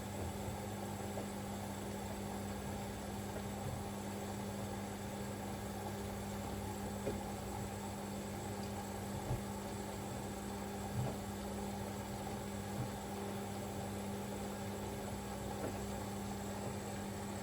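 Siemens Extraklasse XLS 140 A front-loading washing machine running early in its cycle: a steady hum with a few faint knocks.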